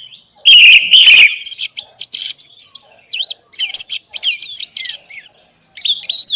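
Orange-headed thrush (anis merah) singing a fast, varied song of chirps, trills and whistles, with long high whistles that slide slowly downward. About half a second in there is a loud harsh burst of song, with a thump under it, that is the loudest moment.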